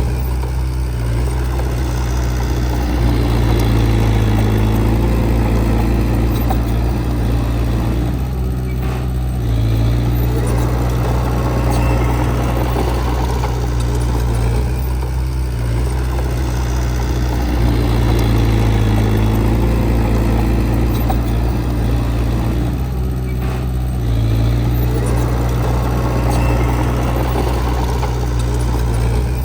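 Heavy earthmoving machine's diesel engine running continuously, its note swelling and easing about every six or seven seconds as the load comes and goes.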